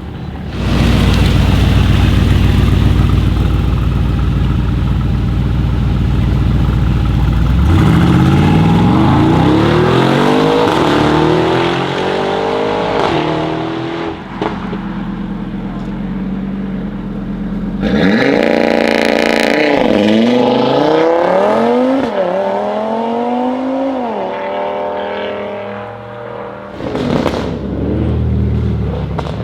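Mercedes-AMG G63's twin-turbo V8 through an Akrapovic exhaust. It runs with a loud, deep, steady note for several seconds, then accelerates hard twice, the pitch climbing and dropping back at each upshift, before fading away.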